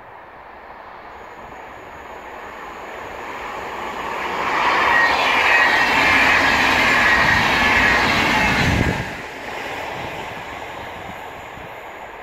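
VR double-deck InterCity passenger train passing on the track: a rising rush of wheels on rails as it approaches, loudest while the coaches go by. It drops off abruptly about nine seconds in as the last coach passes, then fades away.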